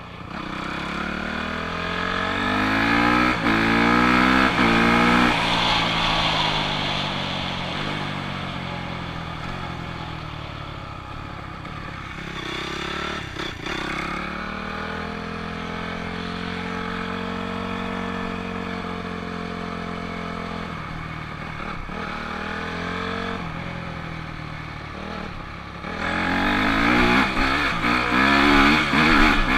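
Honda CRF250R dirt bike's four-stroke single-cylinder engine being ridden, revving up and down through the gears. It revs hard early on, runs steadier and quieter through the middle, then revs hard again near the end.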